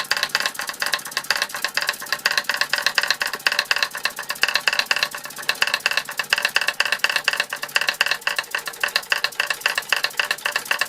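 Fritz Neumeyer toy steam engine running and driving a set of Martinet model hammers, which clatter in a fast, even rattle.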